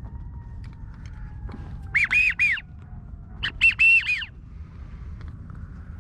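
A waterfowl whistle call blown close by, in two quick runs of three high, arching whistled notes about a second and a half apart.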